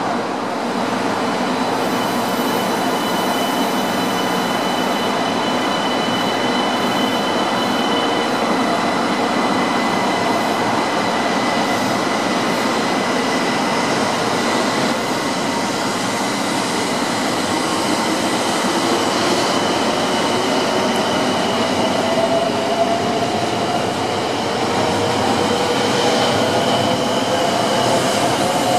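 Shinkansen train rolling slowly past the platform: a steady rumble of wheels on rail under high, steady whines. Over the last several seconds an electric motor whine rises in pitch.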